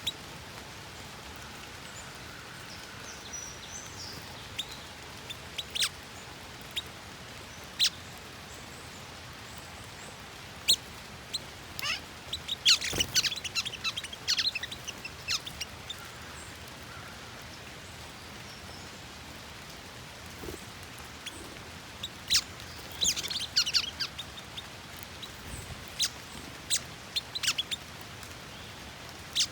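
Steady rain with short, high chirps and calls of small wild songbirds at a feeder, coming in scattered single notes and two busier flurries, one about halfway through and another a little later.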